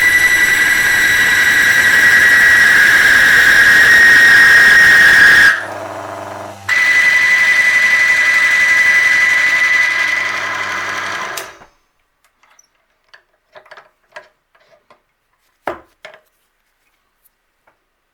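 Block-on-ring tribometer under load: the steel block squeals loudly against the rotating ring, with the test motor humming beneath. The squeal is the sign of metal-to-metal contact as the 15W-40 oil film breaks down near the seizure point. It breaks off about five and a half seconds in, resumes a second later, and dies away with the motor a little over eleven seconds in, leaving a few faint clicks.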